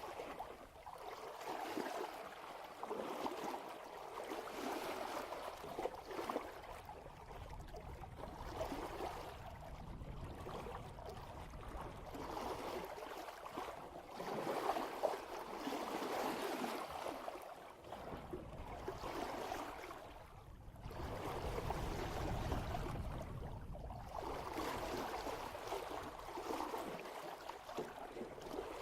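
Water rushing and splashing along the bow of a sailboat moving at about 3 knots, swelling and easing every few seconds as the hull meets the swell. A low rumble comes in for a few seconds about two-thirds of the way through.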